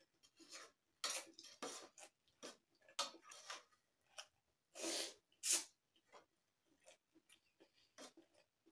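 Close-up eating sounds of a person eating very spicy instant noodles: a run of short slurps and chews, with the loudest bursts about five seconds in.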